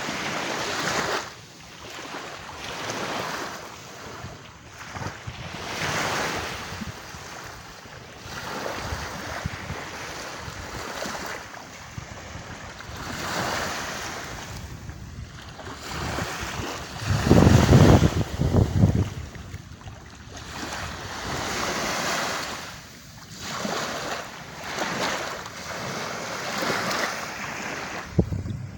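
Sea waves washing onto a beach, the surf swelling and falling every few seconds. Wind buffets the microphone with a loud low rumble a little past the middle.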